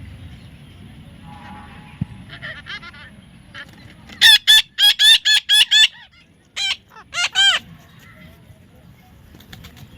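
A parrot calling: a few soft squawks, then a rapid run of loud squawks about four a second, and after a short pause three more.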